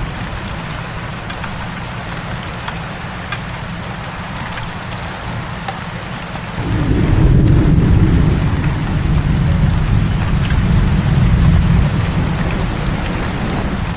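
Heavy rain falling steadily, with a low rumble of thunder that swells suddenly about halfway through, rolls on for several seconds, then eases off near the end.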